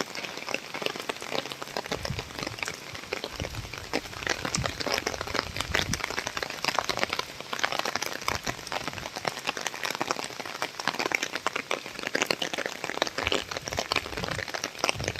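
Steady rain with dense drops pattering and splashing on hard surfaces, some thudding lower down in places.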